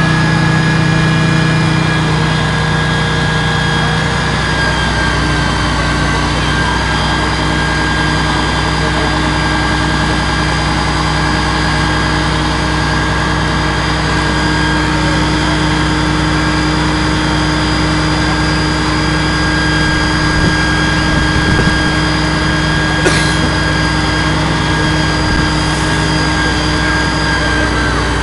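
Scania aerial ladder platform fire engine's diesel engine running steadily, with a constant high whine over the engine note. A single sharp click comes about 23 seconds in.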